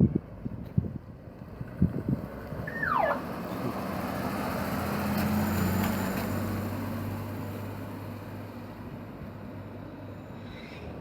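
A car driving past: its engine tone and road noise build to a peak about five or six seconds in, then fade away. Wind buffets the microphone at the start, and a short falling whistle sounds about three seconds in.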